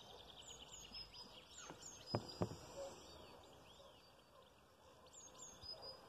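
Small songbirds chirping and singing faintly, with short high notes that drop in pitch, heard on and off. Two sharp clicks a little after two seconds in stand out as the loudest sounds.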